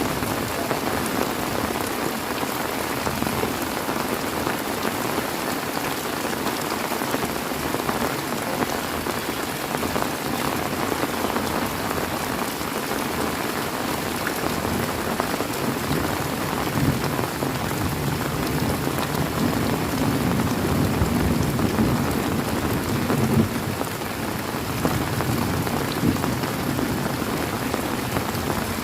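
Heavy rain falling steadily on surfaces. Past the middle a low roll of thunder builds for several seconds and then fades.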